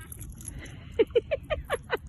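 An animal's rapid string of short calls, each sliding down in pitch, about five or six a second, starting about a second in.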